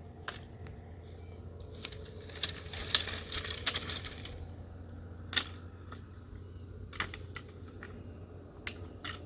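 Irregular clicks and light clatter of small hard objects, busiest around three seconds in, over a steady low hum.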